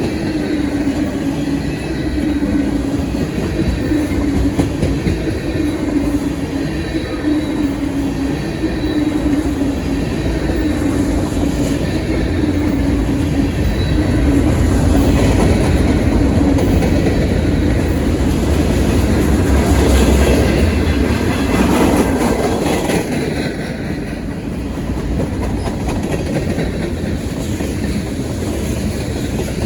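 Freight cars of a long mixed manifest train rolling past steadily, wheels clacking over the rail joints, with a steady tone in the first half that fades away.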